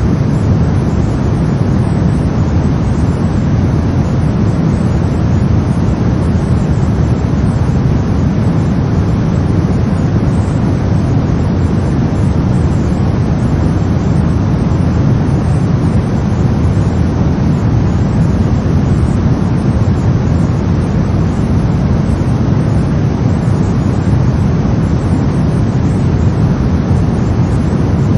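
Brown noise: a steady, deep rumbling hiss, strongest in the bass and thinning toward the highs, unchanging throughout.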